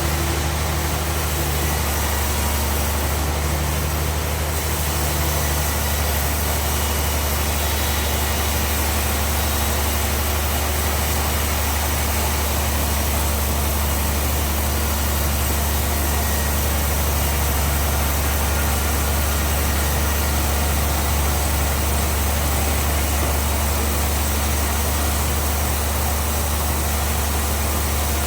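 Bandsaw sawmill machinery running steadily with a deep, even hum that does not change in level.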